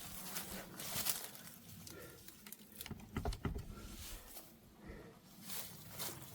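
Footsteps: a few irregular steps and scuffs, spaced a second or more apart.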